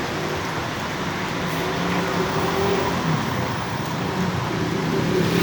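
Road traffic: vehicle engines running and passing, over a steady hiss of traffic noise.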